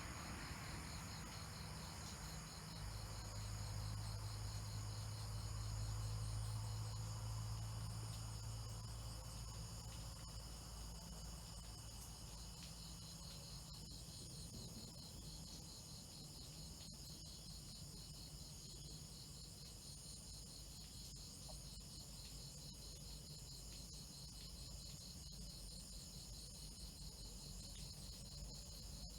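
Faint chorus of night insects such as crickets: several steady high-pitched trills, one with a fast pulse. A low hum rises in the first few seconds and fades out by about ten seconds in.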